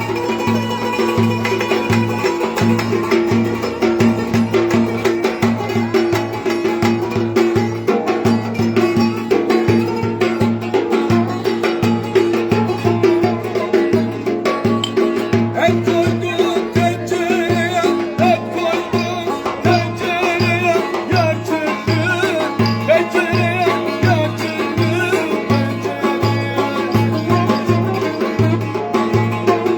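Live Turkish folk dance tune (oyun havası): a drum keeps a steady beat about twice a second under a wavering, ornamented melody.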